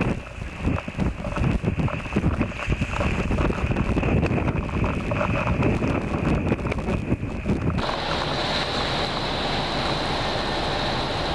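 Strong wind buffeting the microphone in uneven gusts. About eight seconds in it switches abruptly to a steadier rushing noise with a thin high whine.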